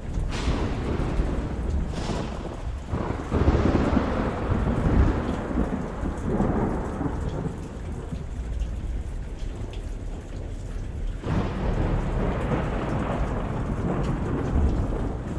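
Thunderstorm: steady rain throughout, with thunder. Two sharp cracks come in the first two seconds, then a long rumble builds from about three seconds in and dies away, and another roll of thunder swells up after about eleven seconds.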